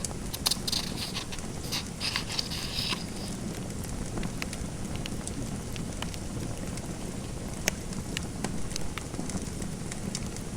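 Fireplace fire crackling, with scattered sharp pops over a steady low rumble. For a couple of seconds near the start a pen scratches on paper in short strokes.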